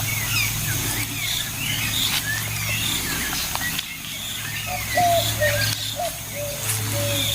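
Several birds chirping and whistling in short sliding notes over a steady low hum. From about five seconds in, a lower-pitched call repeats in a few short notes.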